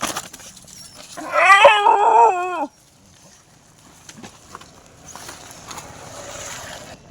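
A street dog giving one wavering, whining howl about a second in, lasting about a second and a half, followed by a soft hiss and light clicks near the end.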